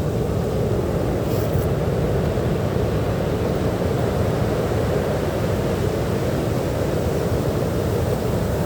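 Sea surf on a beach: a steady, unbroken low rushing rumble of waves.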